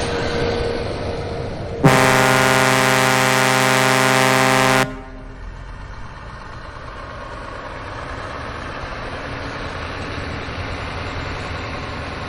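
A vehicle horn sounds one steady blast of about three seconds, starting about two seconds in and cutting off sharply. Steady background rumble runs underneath.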